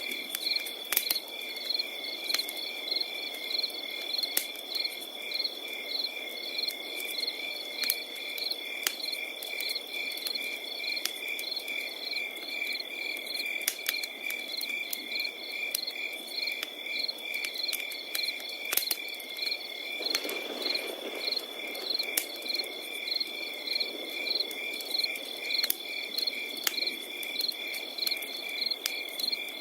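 Crickets chirping at night: a steady high trill with rows of regular, evenly repeating chirps above and below it. Over them a wood fire crackles with scattered sharp pops and a low rush of flame that swells briefly about twenty seconds in.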